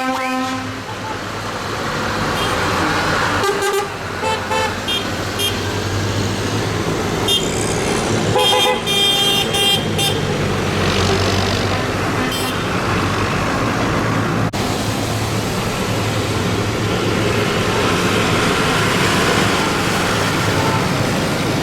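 A procession of tractors passing with their engines running steadily, and horns tooting in short blasts, in clusters about a few seconds in and again near the middle.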